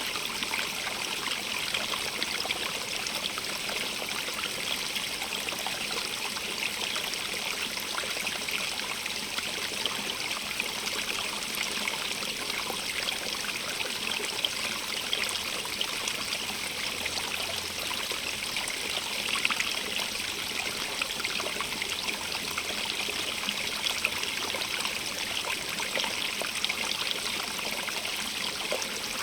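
Small stream running steadily over rocks, with bright trickling and splashing.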